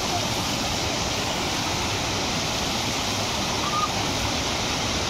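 Steady rushing of a waterfall, an even wash of falling water without a break.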